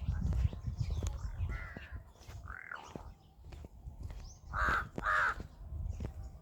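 Birds calling outdoors: a few short calls, the two loudest back to back about two-thirds of the way through, over a low rumble.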